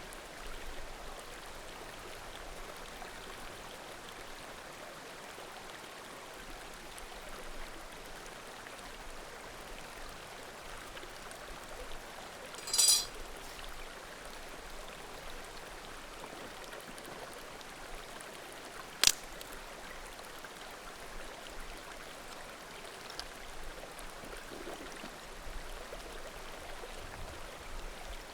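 Small mountain creek murmuring steadily, with a brief burst of crackling firewood about halfway through and one sharp pop of burning wood about two-thirds of the way in; the crackle and pop are the loudest sounds.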